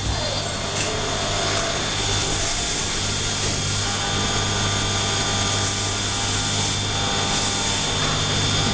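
Mori Seiki CNC turn-mill machine running a machining cycle: steady machine noise with a constant low hum and a high whine. A short pitch sweep comes near the end.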